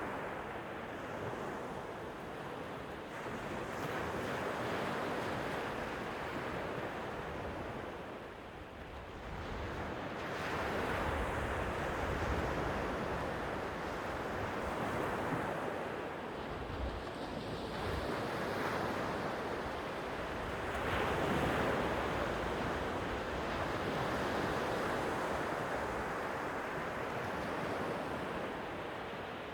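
Sea waves washing onto the shore, swelling and ebbing every few seconds, with low rumbles of wind on the microphone.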